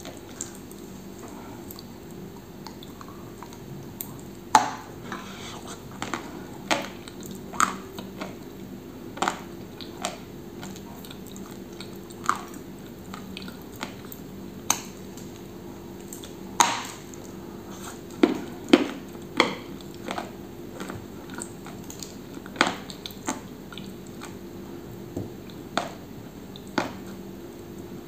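Close-miked biting and chewing of a dry, crunchy bar: sharp crunches every second or two, with the loudest near a sixth of the way in and again past the middle, over a low steady hum.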